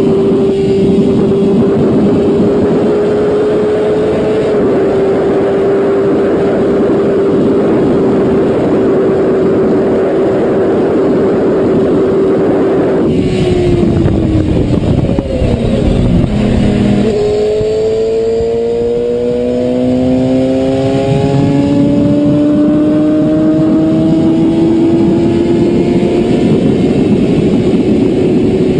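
Motorcycle engine running at a steady cruising note under heavy wind rush. About halfway through, the wind noise cuts off suddenly and the engine note falls away under hard emergency braking. A few seconds later the engine note climbs slowly and steadily again as the bike pulls away.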